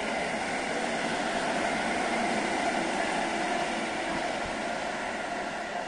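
EN57-series electric multiple unit running past along the platform: a steady noise of wheels on rail and running gear that swells slightly midway and eases a little toward the end.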